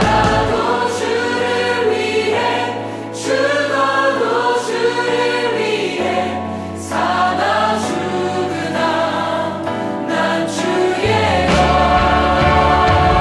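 A worship choir singing a sustained passage of a gospel song with musical accompaniment. The low bass drops out about half a second in and comes back near the end.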